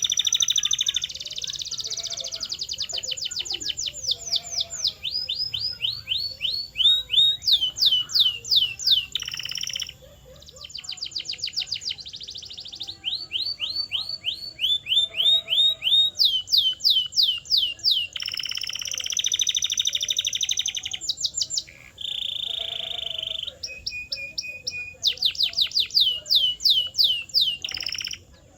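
Domestic canary singing a long, loud song built of rapid runs of repeated down-slurred whistled notes, alternating with buzzy rolls and even trills, with one brief break about a third of the way through.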